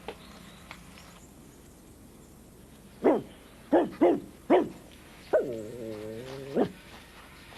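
The Muppet dog Barkley's vocal dog sounds, done by a performer: four short barks in about a second and a half, each falling in pitch, then one longer call that dips in pitch and rises sharply at the end.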